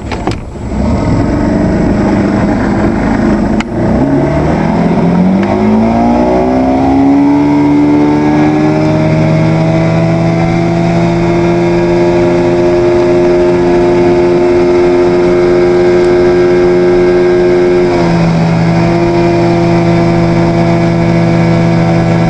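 Evinrude 120 hp outboard motor running. After a sharp click a few seconds in, its engine speed climbs steadily for about six seconds, then holds at a high, steady rev, shifting slightly near the end.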